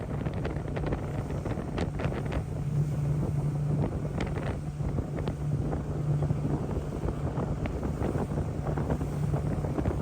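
Boat motor running steadily with heavy wind buffeting the microphone, the kind of sound made by a small motorboat under way.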